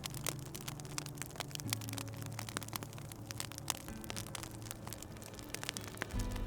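Fire crackling in a fireplace, with frequent small sharp pops. Underneath is soft music of slow, held low notes that change about every two seconds.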